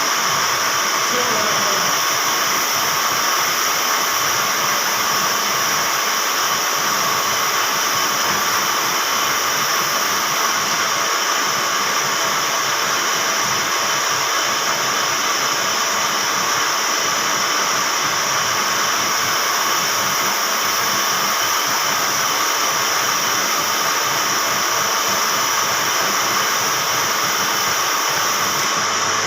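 Workshop machine running steadily: a continuous whir with a steady high whine that holds unchanged throughout.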